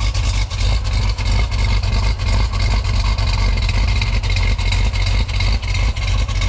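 Exhaust of a 1977 Jeep Cherokee Super Chief idling steadily at the tailpipe, with an even pulsing, less than a minute after a cold start.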